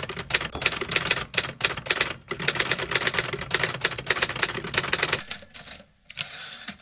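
Typewriter keys clacking in rapid, uneven succession, easing off about five seconds in, with a short last burst of strokes near the end.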